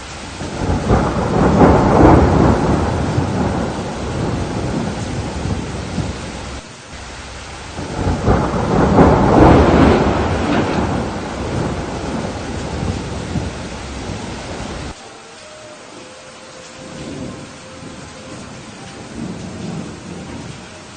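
Thunderstorm: two long rolls of thunder over steady rain, each swelling up within a second or two and then rumbling away before cutting off abruptly. After the second roll, about two-thirds of the way in, only the softer hiss of rain remains.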